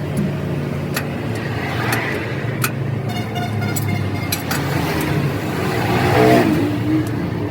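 An engine running steadily with a low hum, with a few sharp metallic clicks and a brief ringing tone about three seconds in.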